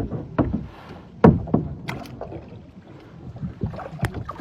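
Water splashing and knocking around kayaks: several sharp, irregular splashes in the first two seconds and another near the end, over a light wash of water.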